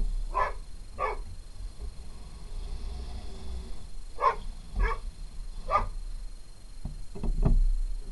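Dog barking: two barks about half a second apart, a pause of about three seconds, then three more barks.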